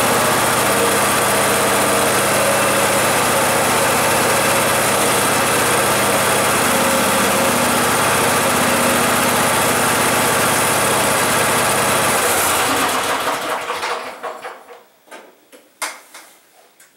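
Husqvarna YTH24K48 garden tractor's 24-horsepower engine running steadily after a cold start, then shut off about 13 seconds in and winding down. A few scattered clicks and knocks follow.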